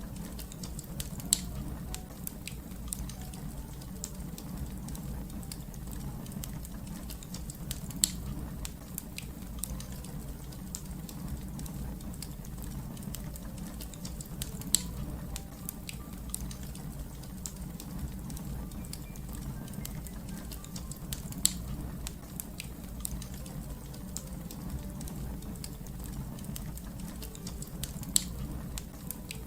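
Wood fire crackling: a steady low rumble of burning with scattered small crackles, and a sharper, louder pop about every seven seconds.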